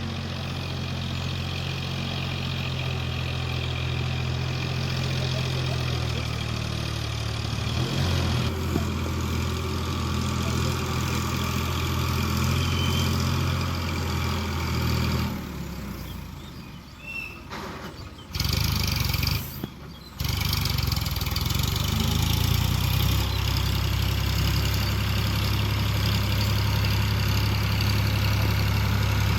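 Eicher tractor's diesel engine running steadily with a low, even drone. Past the middle the sound drops away sharply for a few seconds, with two short breaks, before the engine is heard again at full level.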